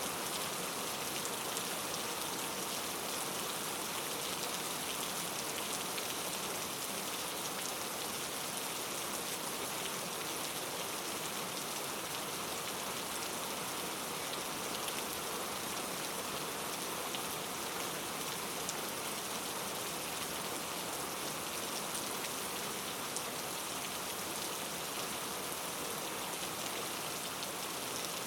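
Steady rain falling on a surface: an even hiss with scattered fine drop ticks, unchanging throughout.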